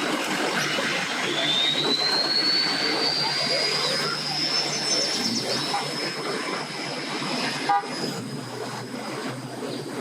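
Boat outboard motor running and speeding up: a high whine rises in pitch over about four seconds, then holds steady. A sharp click comes near the end.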